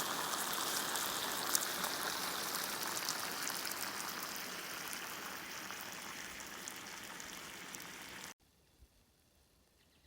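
Steady hiss of falling water, dotted with fine drop-like ticks, slowly fading and then cutting off suddenly about eight seconds in, leaving near silence with a few faint clicks.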